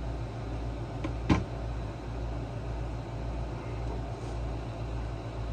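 A steady low hum with one sharp knock about a second in, as a tool or part is handled while a small generator is being taken apart.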